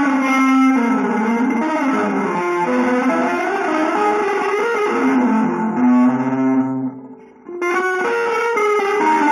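Electric guitar playing a quick, winding single-note melodic line with a held low note, dropping out briefly about seven seconds in before carrying on.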